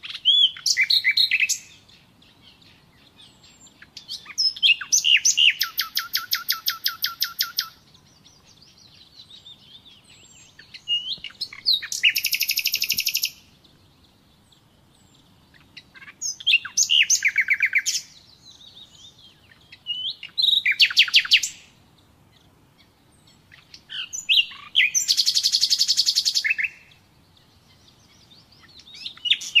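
Nightingale singing: six song phrases a few seconds apart, each a fast run of repeated notes, with pauses between.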